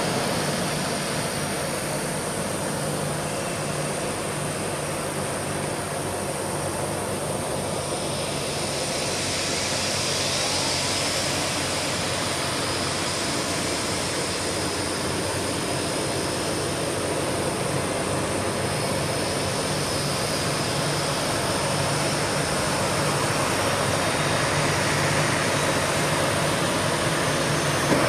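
Jet airliner engines running: a continuous rumble with a steady high whine that strengthens about a third of the way in, the overall noise growing a little louder near the end.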